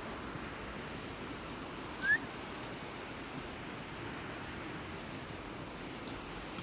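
A single short rising bird whistle about two seconds in, over a steady rushing hiss.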